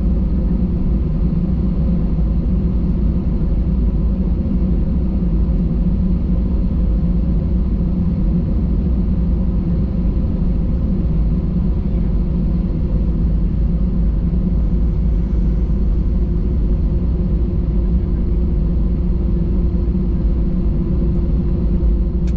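Steady low rumble of an Airbus A320's engines and airflow heard from inside the passenger cabin, with a faint steady hum over it and no change in pitch.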